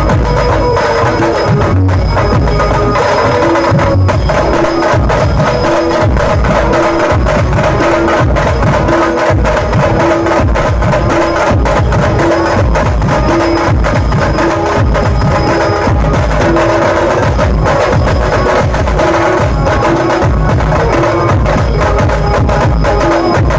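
Banjo group playing loud, continuous procession music: fast, dense drumming under a short pitched figure that repeats about once a second.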